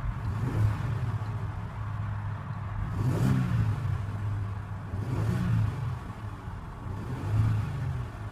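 Audi Q7 3.0T's supercharged 3.0-litre V6 idling and given three short revs, each rising briefly and settling back to idle, about two seconds apart.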